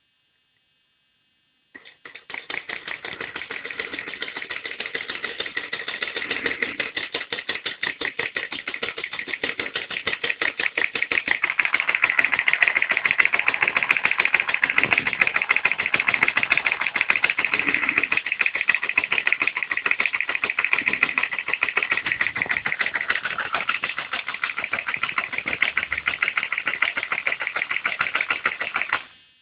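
Homemade piston (solenoid-type) electric motor starting up about two seconds in and running with a fast, even mechanical clatter, then stopping suddenly near the end.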